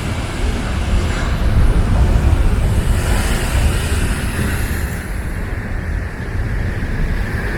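Typhoon wind buffeting the microphone: a loud, steady rushing noise with a heavy rumble that rises and falls.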